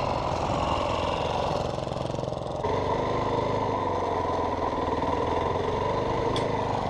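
Dirt bike engine running steadily at low revs, its note shifting about two and a half seconds in.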